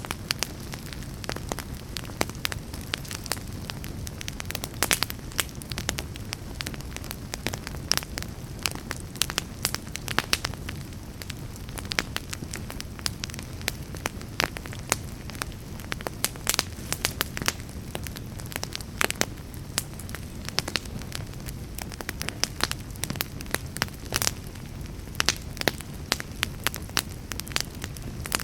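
Fire burning in a fireplace, crackling with frequent sharp pops over a low, steady rumble of flames.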